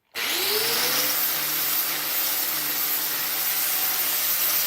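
Right-angle die grinder starting suddenly and spinning up, its pitch rising over the first second, then running steadily with a loud, dense hiss.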